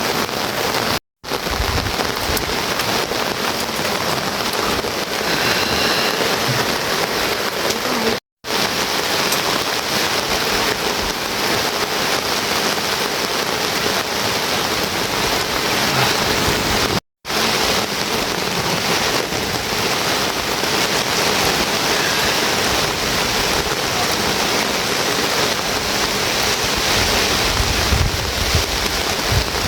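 Steady heavy rainfall, a dense even hiss of rain, broken by three very brief moments of total silence about 1, 8 and 17 seconds in.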